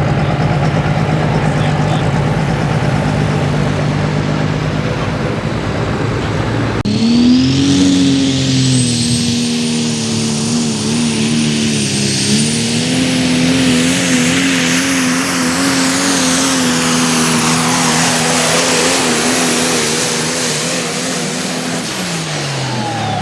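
Super stock diesel 4x4 pulling truck under full power. For the first several seconds the engine runs with a low rumble. About seven seconds in it jumps to a high, steady engine note with a loud turbo whistle that rises and then holds, and the pitch wavers throughout. Near the end the engine drops in pitch and the whistle fades as the truck powers down.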